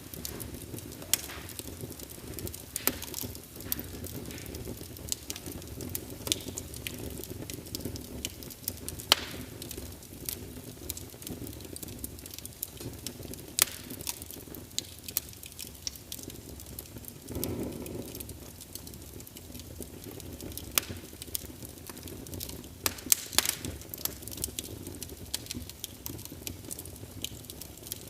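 Wood fire crackling: a steady low rush of burning logs with frequent sharp, irregular pops and snaps, and a brief louder rush of flame a little past the middle.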